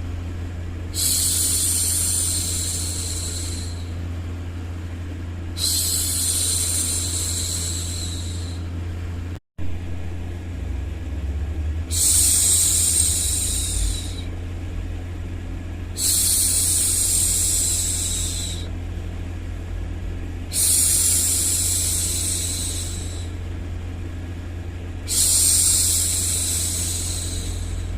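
A woman's voice making long 'shhh' hushing sounds, six in all, each lasting two to three seconds with short pauses between, over a steady low background noise. A brief cut to silence comes about a third of the way through.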